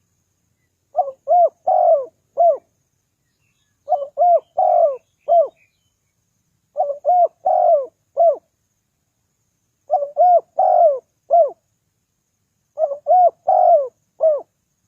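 Spotted dove giving its lure call: five repeated phrases of about four coos each, one phrase roughly every three seconds.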